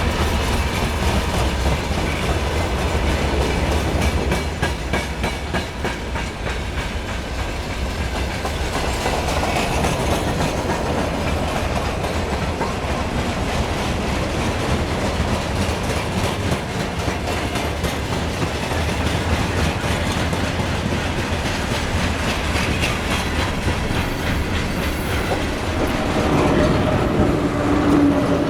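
A train rolling past over continuous running noise, its wheels clicking rapidly over the rail joints.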